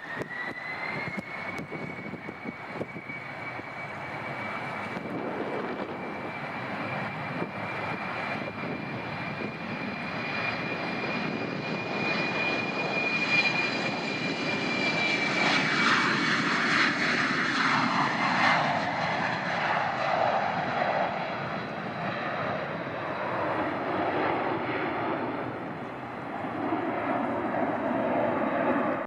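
Airliner engines close by: a high whine that rises over the first couple of seconds and then holds steady, under a rushing engine noise that swells to its loudest a little past halfway and then eases off.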